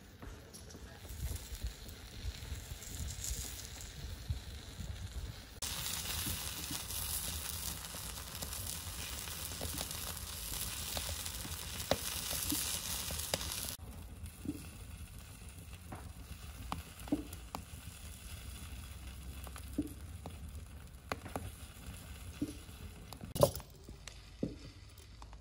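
Kutab cooking on a hot saj, the domed iron griddle, sizzling with a steady hiss for about eight seconds in the middle. Afterwards there are scattered light taps and one sharper knock near the end as dough is worked on the table.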